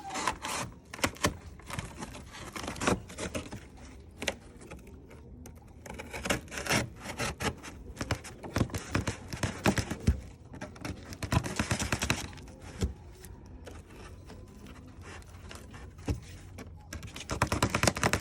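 A cardboard shipping box being cut with a knife and handled: irregular scraping and knocking sounds, busiest in the middle and near the end.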